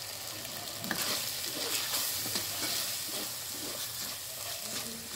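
Onion-tomato masala sizzling in an earthenware clay pot as a wooden spatula stirs and scrapes through it, mixing in freshly added ground spices. The scraping starts about a second in and carries on in short strokes over a steady sizzle.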